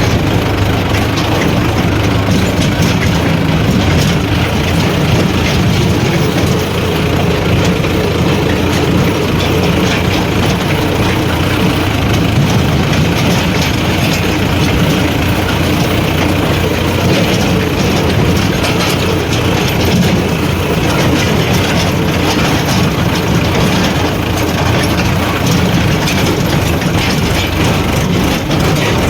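Heavy diesel engines of a JCB 3DX backhoe loader and Mahindra tractors running steadily, with a continuous mechanical rattle.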